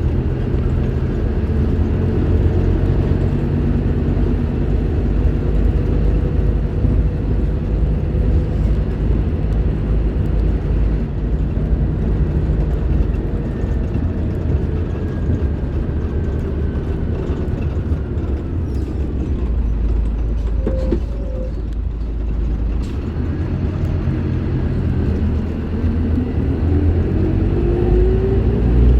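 Scania K310IB bus diesel engine running under way, its pitch slowly falling over the first twenty seconds or so, then rising again near the end as it picks up speed.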